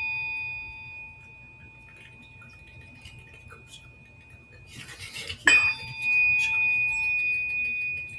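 A struck metal instrument rings out with a clear high tone over a softer lower one, fading slowly. It is struck again about five and a half seconds in and rings on.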